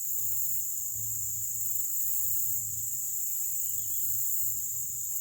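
Steady, unbroken high-pitched chorus of insects, crickets, over a faint low rumble.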